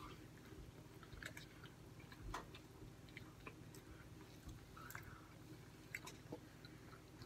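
Faint close chewing of fried food, with a few soft clicks and taps scattered through, over a steady low hum.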